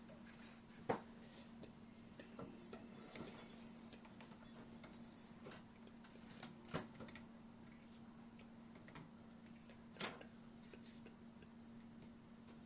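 Quiet hands-on assembly noise from computer parts being fitted: scattered light clicks and taps, with three sharper clicks about a second in, near the middle and about ten seconds in, over a steady low hum.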